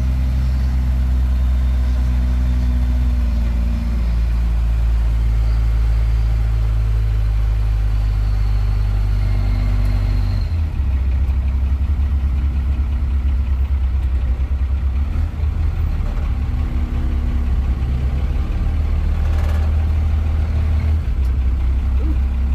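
Truck engine running at low speed while rolling slowly, a steady low drone that settles to a slightly different pitch about ten seconds in.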